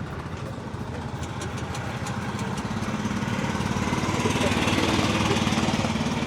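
A motorcycle engine running at idle, a steady rapid low throb that grows louder through the second half.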